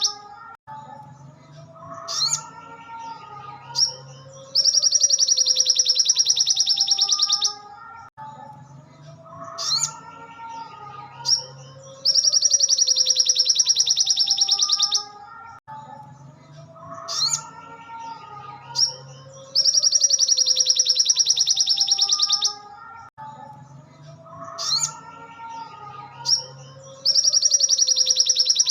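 Looped training recording of a sogon (crimson sunbird) singing: a long, rapid, high trill of about three seconds that comes back about every seven and a half seconds, with quieter varied chirps and warbles between the trills.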